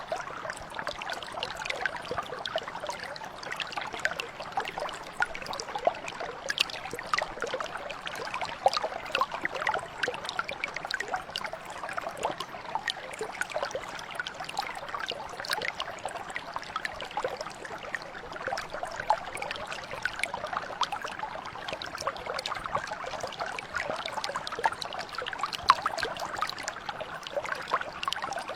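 Mountain brook flowing steadily, a continuous babble of small trickles and splashes.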